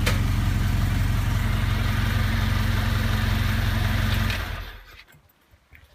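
1974 Alfa Romeo Spider's fuel-injected twin-cam four-cylinder engine idling steadily after a cold start, freshly serviced for injection and timing, with a brief click right at the start. About four seconds in the engine is switched off and the idle dies away within half a second.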